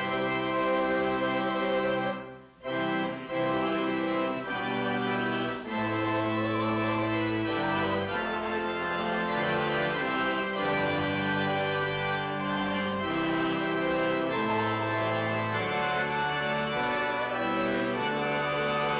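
Church organ playing slow, sustained chords that change every second or two, with a brief break about two and a half seconds in.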